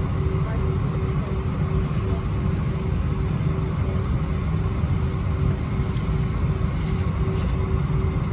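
Cabin noise inside an Airbus A320-231: a steady low rumble with a constant droning hum above it.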